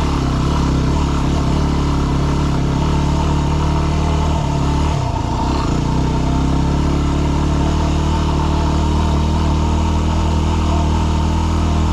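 Yamaha WR250R's single-cylinder four-stroke engine idling steadily while the bike is stopped, with a brief change in its sound about five seconds in.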